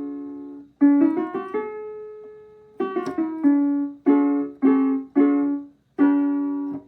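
Donner DDP-60 digital piano playing its piano voice: a short phrase of struck notes and chords, each left to die away, with a quick run of notes about a second in.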